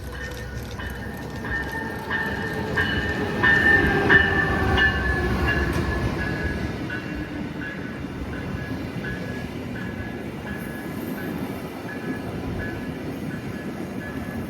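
Train passing on the rails, loudest about four seconds in, with tones that fall in pitch as it goes by and a steady rumble afterwards. A high ring repeats about twice a second throughout.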